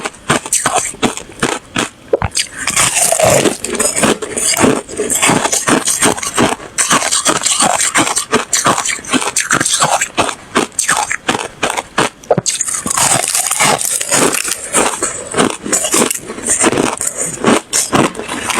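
A person biting and chewing ice, close to the microphone: a continuous run of loud, crisp crunches and crackles, several per second, without a break.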